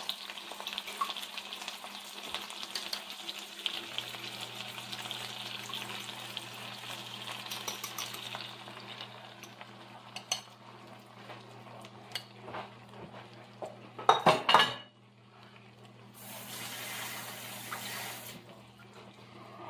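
Steak, pepper and onion breakfast skillet sizzling and frying in a pan, with a utensil stirring and scraping; the sizzle dies down after about eight seconds. A loud clatter of cookware comes about fourteen seconds in, and a couple of seconds of hiss a little later.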